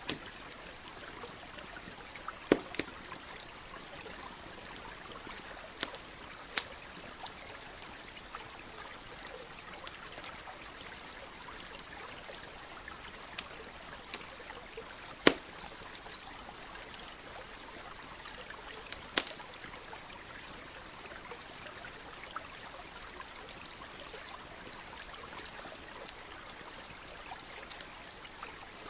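Campfire crackling, with sharp irregular pops (a few louder ones, the loudest about halfway through), over the steady rush of a stream.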